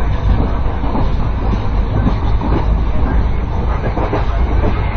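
Passenger train running, heard from inside the carriage at an open window: a loud, steady rumble of the wheels on the track.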